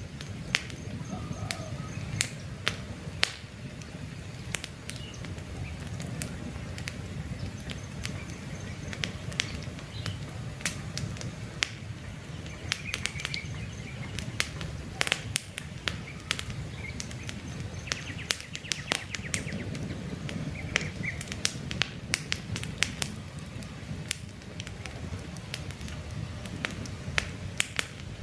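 Campfire crackling, with frequent sharp pops and snaps over a steady low rush of burning wood. Faint bird chirps come through now and then.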